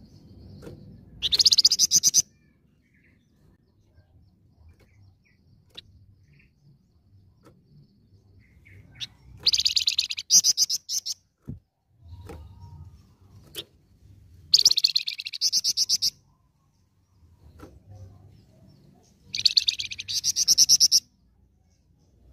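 Flamboyan songbird singing loud, high, rapid trilled phrases, four bursts of one to two seconds each with pauses of several seconds between them.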